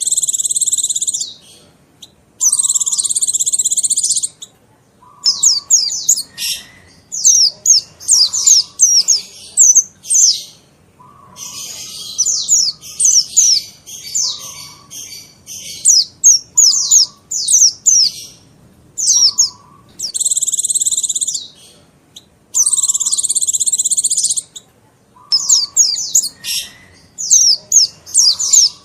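Mountain white-eye (pleci monty) song played as a lure recording: rapid, high-pitched down-slurred chirps broken up several times by dense buzzing trills of about a second and a half each.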